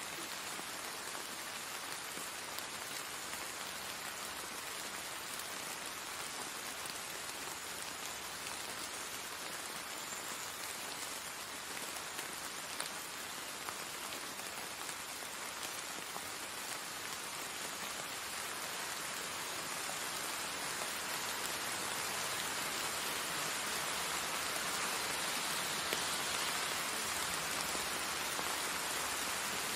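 Steady rain falling, an even hiss that grows somewhat louder about two-thirds of the way through.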